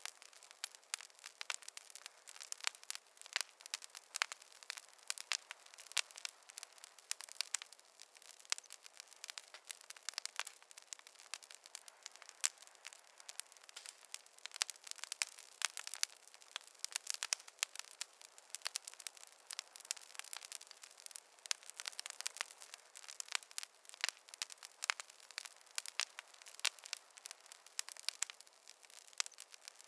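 Wood fire crackling: a steady stream of small, irregular pops and snaps from burning logs over a soft hiss.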